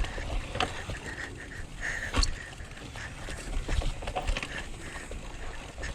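Mountain bike riding over a rough dirt trail: the bike rattles, with scattered clicks and knocks from the tyres and frame, over a low rumble of wind on the microphone.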